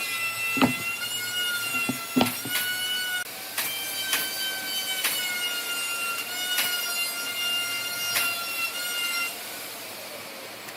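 A power tool running with a steady high whine that shifts in pitch a few times and stops about nine seconds in, with sharp knocks of wood or tool at intervals.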